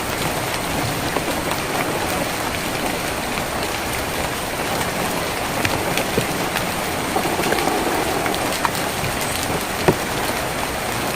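Steady rain drumming on a tin roof, an even hiss with scattered sharper ticks of single drops striking the metal.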